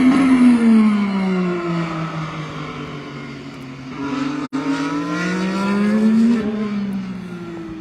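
IndyCar's 2.2-litre twin-turbo V6 engine on track, its pitch falling as the car slows over the first few seconds, then climbing as it accelerates about four seconds in, and falling away again near the end.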